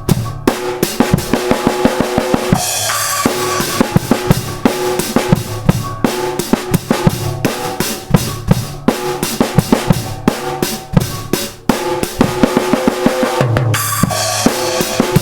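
A drum kit played in a busy, steady beat of bass drum and snare hits, with crash cymbal washes about two and a half seconds in and again near the end. Steady pitched notes sound underneath.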